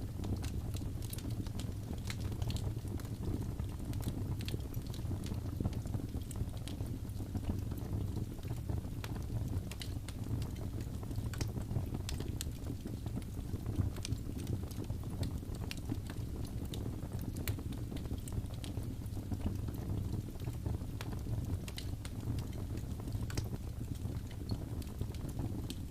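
Wood fire crackling in a fireplace: a steady low rumble of flames with many small sharp pops and snaps scattered throughout.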